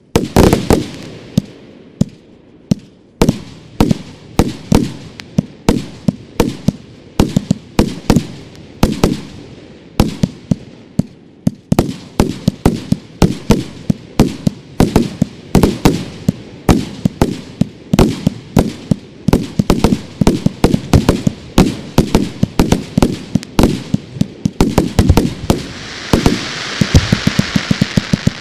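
Fireworks display of aerial shells and cake batteries going off: a long string of sharp bangs, spaced out at first and coming faster and faster. Near the end a steady crackling hiss builds up under the bangs.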